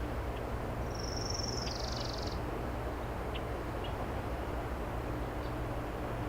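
A bird gives one high, drawn-out buzzy call about a second in, lasting about a second and a half, with a few faint short chirps around it. Under it runs the steady low drone of an excavator engine.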